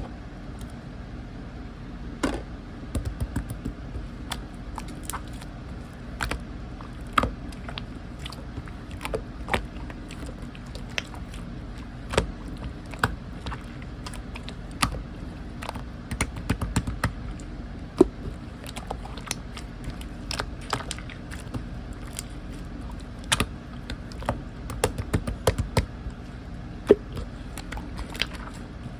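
Slime being squeezed and pressed by hand, making irregular sticky clicks and pops over a low steady hum.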